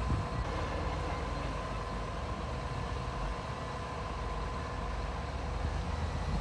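Heavy earthmoving machinery's diesel engine running steadily with a low rumble.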